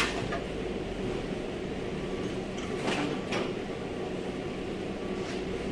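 A steady low mechanical hum with a few short clicks or light knocks: one at the start, a close pair about three seconds in, and one near the end.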